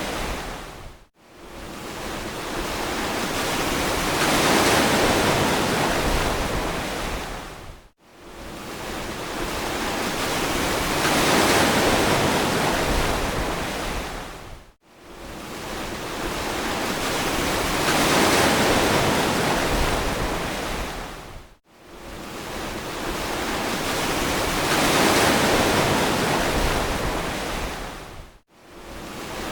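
Ocean surf: waves swelling and washing in about every seven seconds, each fading away and cutting almost to silence for a moment before the next one builds.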